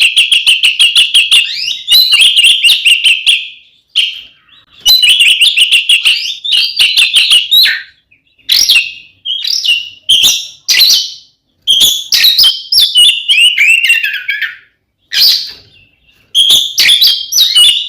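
Oriental magpie-robin (kacer) singing its loud, aggressive fighting song. It runs as phrases of fast, rattling trills and sharp whistled notes, with short pauses between them.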